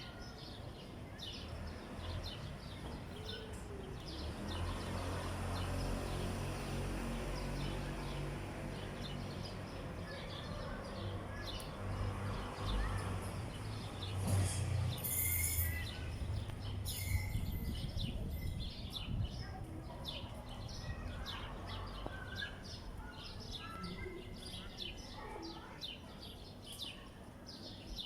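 Small birds chirping busily throughout. A low rumble swells in through the first seconds, holds through the middle, and eases off in the later part.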